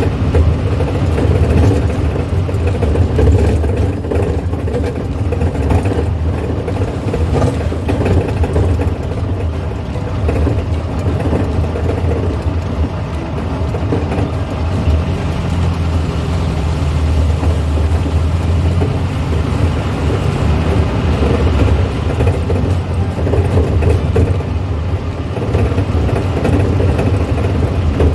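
1970s Volkswagen's engine running steadily as the car drives along at an even pace, a constant low drone.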